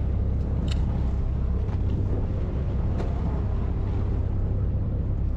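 A fishing boat's engine running steadily with a low drone, with a couple of faint clicks.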